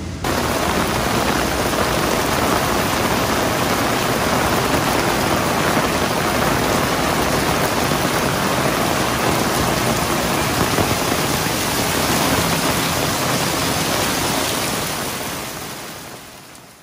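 Heavy rain pouring down onto a paved alley, a dense steady rush of rain that the uploader likens to a waterfall. It cuts in suddenly at the start and fades out near the end.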